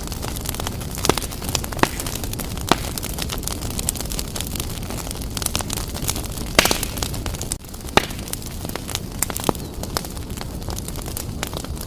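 Wood fire burning vigorously in a fireplace: a steady low rumble with sharp crackles and pops scattered throughout, the loudest pop a little past halfway.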